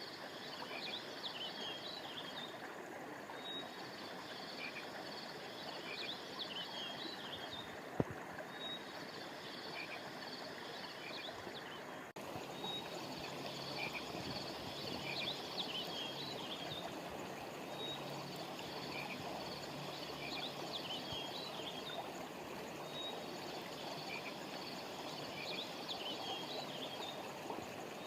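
Steady rush of a flowing stream with high chirping calls of small frogs or birds, repeated in bursts of a few seconds about every five seconds. A single sharp click about eight seconds in, and a brief drop in the sound a few seconds later.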